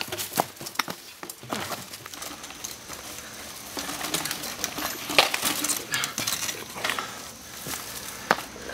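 Mountain bike clattering over rocks: irregular metallic clinks and clanks of chain and frame with knocks of tyres on stone. A few louder clanks come about half a second in, around five seconds in and near the end.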